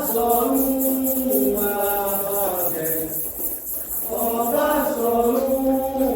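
Candomblé ritual song: voices chanting in sung phrases over a steady, quick percussion pulse, with a short break in the singing about three seconds in.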